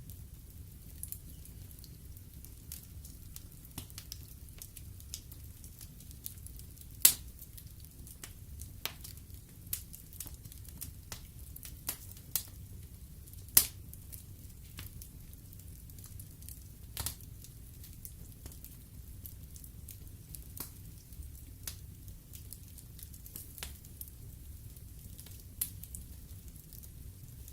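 Wood fire in a fireplace, logs crackling with a low steady rumble and frequent irregular pops. Two sharp, loud pops come about 7 and 13 seconds in, with smaller snaps scattered between.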